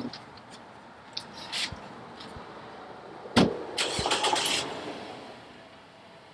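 A car door shuts with a sharp thump, then a car starts up and its sound fades away over the next couple of seconds.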